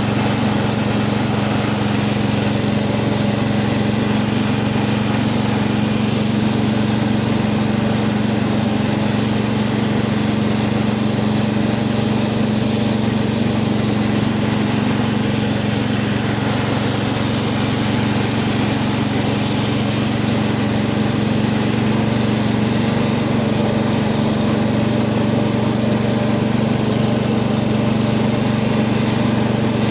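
Cub Cadet 80 garden tractor's single-cylinder engine running steadily at an even speed, warming up after a cold start.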